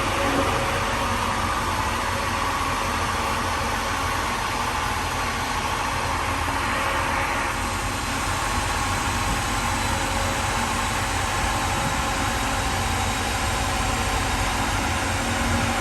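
GM L92 6.2-litre V8 idling steadily.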